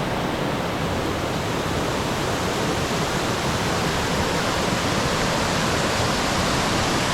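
Steady rush of water from a creek cascade.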